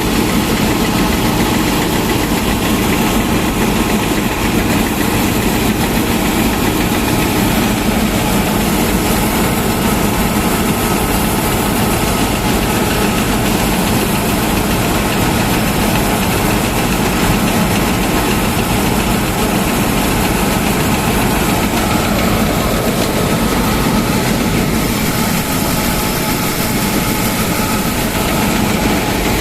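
1965 Köla Combi Special combine harvester running steadily while harvesting wheat, its engine and machinery holding an even, unchanging drone.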